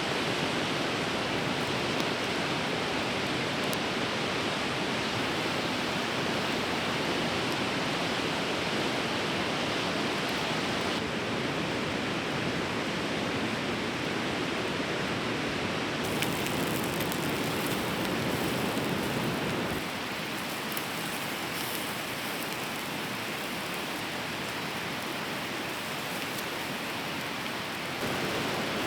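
Steady rushing of a fast-flowing river, with a few faint ticks, the noise shifting abruptly in tone a few times.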